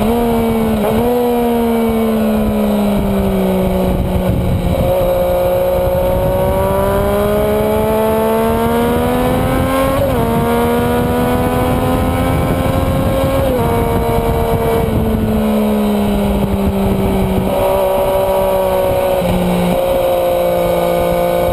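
Sport motorcycle's engine heard onboard at track speed, its note slowly falling and rising with the throttle through the corners, with a few abrupt pitch jumps from shifts or throttle blips. Steady wind and road noise run beneath it.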